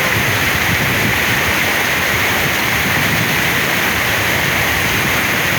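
Waterfall rushing: a loud, steady noise of falling water that does not change.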